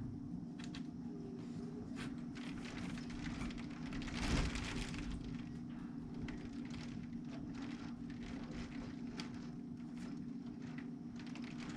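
Heavy thunderstorm rain, a steady wash dotted with many sharp drop ticks, with a brief swell about four seconds in, over a steady low hum.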